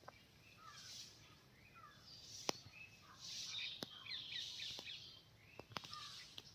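Small birds chirping and twittering, many short overlapping calls, with a few sharp clicks in between.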